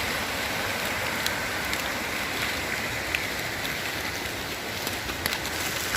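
Steady rushing water of a mountain waterfall mixed with falling rain, with a few faint scattered ticks.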